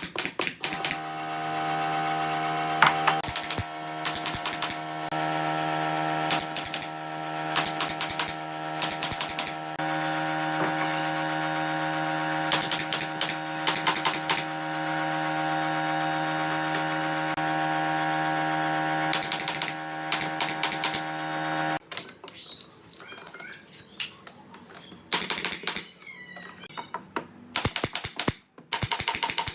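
An electric woodworking power tool runs steadily for about twenty seconds, with sharp knocks and clicks over it. Once the motor cuts off, a scatter of rapid clicks and knocks goes on.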